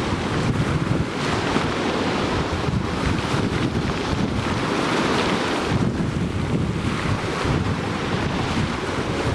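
Sea surf washing onto the shore in a continuous wash that swells and ebbs every few seconds, with a steady low rumble of wind on the microphone.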